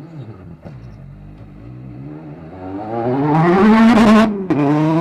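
Rally car engine accelerating hard as it approaches, rising in pitch and loudness, then a sudden break at a gear change about four seconds in before it pulls again at a lower pitch.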